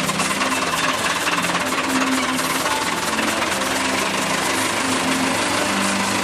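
Massey Ferguson 275 tractor's four-cylinder diesel engine running steadily, with a rapid, even chugging.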